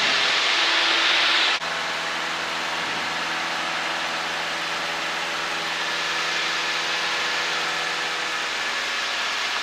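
Cessna 152's four-cylinder Lycoming O-235 engine and propeller running steadily in the cockpit, at power for the climb out of a spin recovery, over a hiss of rushing air. About one and a half seconds in, the sound changes abruptly: the hiss drops back and the engine's steady drone is left.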